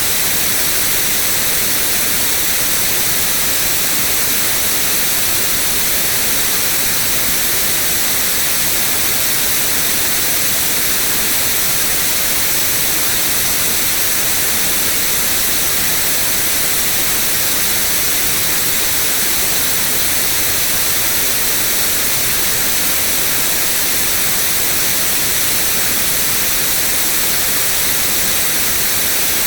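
Steady, unchanging white noise: an even, bright hiss with no breaks or events.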